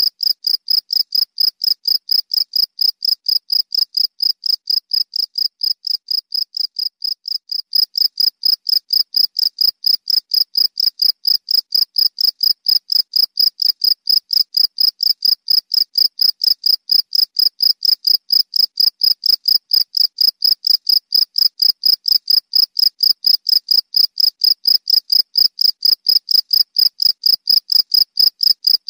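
Cricket chirping: a single high-pitched trill repeated in a fast, very even rhythm, briefly a little softer about seven seconds in.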